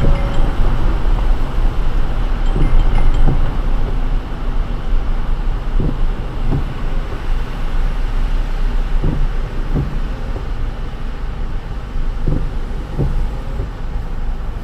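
Car driving on a wet road in the rain: steady low road and tyre rumble with rain hiss. Windscreen-wiper strokes knock in pairs, about three seconds apart.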